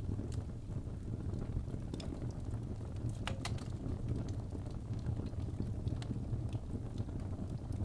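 Fire burning in a fireplace: a steady low rumble with scattered crackles, a few of them close together about three and a half seconds in.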